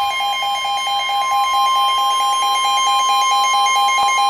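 NOAA Weather Radio warning alarm tone: a loud, steady tone of about 1050 Hz announcing a flash flood warning. Over it, a lower tone beeps rapidly, several times a second, from the receiver's own alert alarm.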